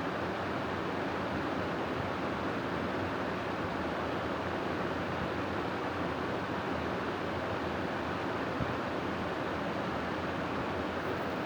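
Steady wind sound for sleeping: an even, unbroken rushing hiss with no gusts or swells.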